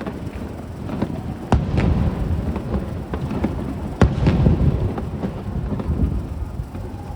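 Aerial fireworks shells bursting: two sharp bangs, about a second and a half in and again about four seconds in, over a continuous low rumble of other bursts.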